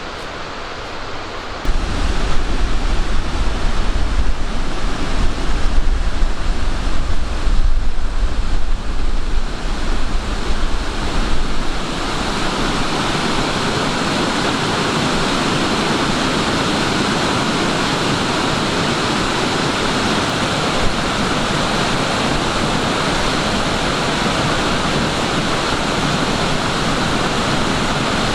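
Rushing water of a waterfall, a steady, even noise. From about two seconds in until about twelve seconds, a deep, gusting rumble of wind on the microphone runs under it.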